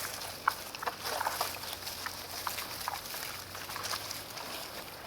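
Potbelly pigs eating: a busy run of crunching, chewing clicks, with short high-pitched squeaks scattered through.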